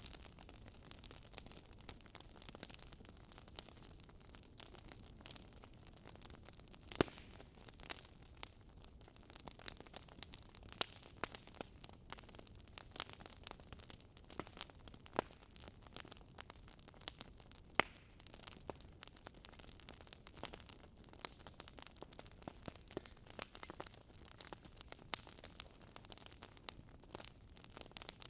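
Wood fire crackling in a fireplace: a soft steady hiss with irregular snaps and pops, two sharper pops about seven and eighteen seconds in.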